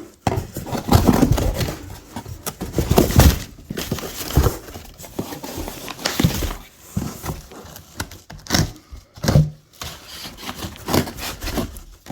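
Cardboard shipping box being wrestled open: irregular scraping, crinkling and knocks of handling, with no steady rhythm.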